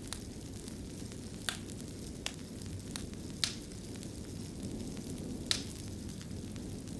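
Wood fire burning in a fireplace: a steady low rumble and hiss with scattered sharp crackles and pops, the loudest two around the middle and near the end.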